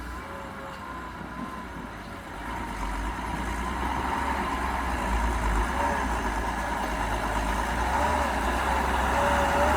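Heavy diesel engine running and growing louder about two seconds in, with a thin wavering whine over it.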